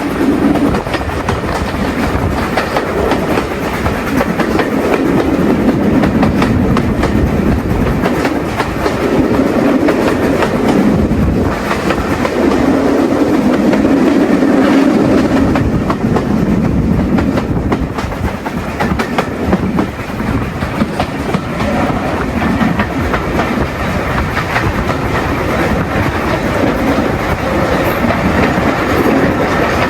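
Train hauled by an LMS Stanier Class 8F steam locomotive running steadily, wheels clattering over the rail joints.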